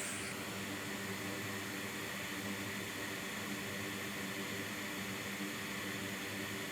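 Steady, even hiss of a fan with a faint low hum under it, unchanging throughout.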